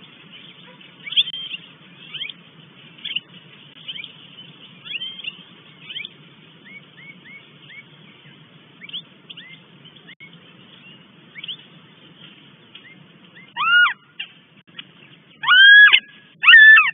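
Northern goshawk calling at the nest: a run of faint, short down-slurred calls, then near the end three loud, drawn-out wailing calls that rise and fall.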